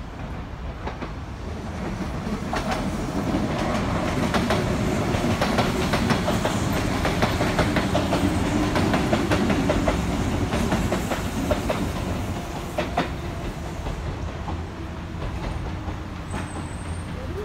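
Kintetsu electric train passing on elevated track, its wheels clacking over the rail joints. The sound builds over the first couple of seconds, is loudest in the middle, and fades as the train moves away.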